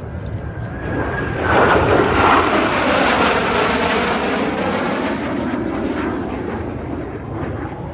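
Jet aircraft making a fast, low pass over the crowd from behind. Its rushing roar swells suddenly about a second and a half in and then slowly fades as it moves away.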